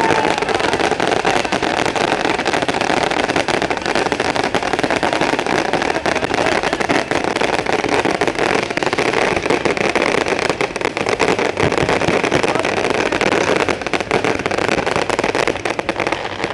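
A dense, continuous fireworks barrage: a steady loud roar of crackling and popping with no break, ending suddenly near the end.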